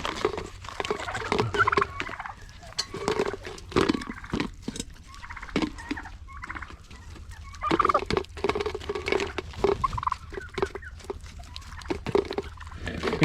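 Domestic turkeys calling repeatedly, with many sharp taps of beaks pecking at food in a bowl.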